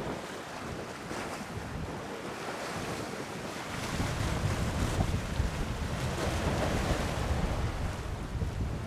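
Wind buffeting the microphone over the wash of sea waves, with the gusts picking up again and growing louder about a third of the way in.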